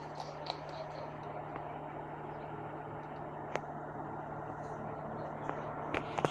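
Faint, steady low hum of an approaching FEVE diesel freight train with its pair of 1600-series locomotives, with a few scattered small clicks.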